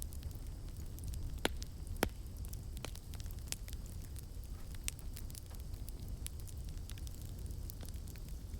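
Campfire crackling: many small, irregular snaps over a steady low rumble of the flames, with two louder pops about one and a half and two seconds in.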